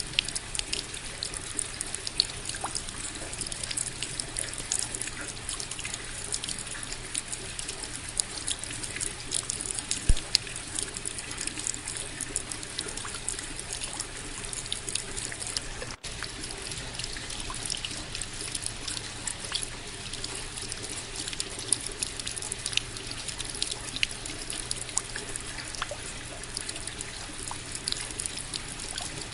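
Steady rain falling, with many separate drops hitting and splashing close by over a continuous wash of water noise. About halfway through the sound cuts out for an instant.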